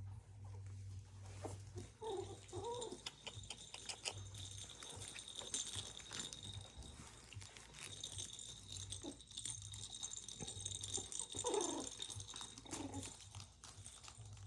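Toy schnauzer puppies playing: scattered small clicks and scuffles of paws and toys, with short puppy vocal sounds about two seconds in and again near the end.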